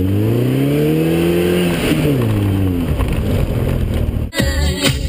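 Truck engine revving: its pitch rises for about a second and a half, then falls back and runs on. Near the end it cuts off suddenly to music with a beat.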